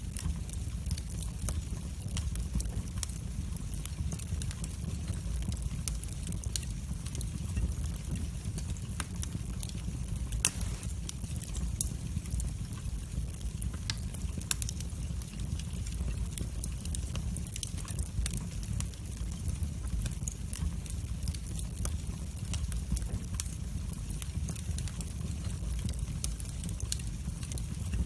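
Wood fire burning in a fireplace: a steady low rumble with many small, irregular crackles and pops, one louder pop about ten seconds in.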